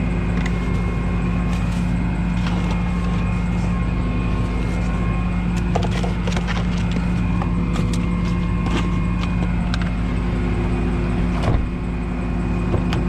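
A truck engine running steadily at a constant speed, with scattered short clicks and knocks over it.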